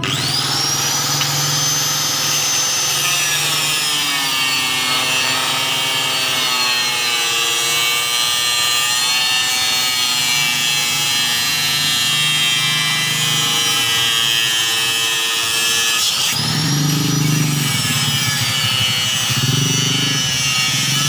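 High-speed electric motor starting with a rising whine, then running loud and steady, its pitch sagging slowly as if under load. It drops sharply about 16 seconds in and spins back up.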